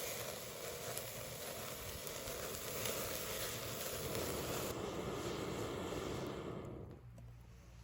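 Wood bonfire burning with a steady hiss and a few faint crackles, fading down about seven seconds in.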